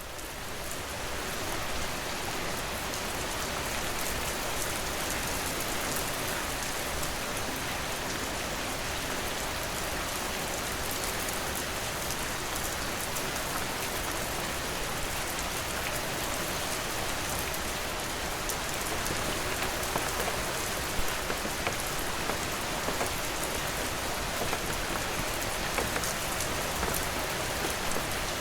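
Steady rain falling, a dense even hiss of drops on a surface, swelling up over the first couple of seconds. A few sharper single drop hits stand out in the second half.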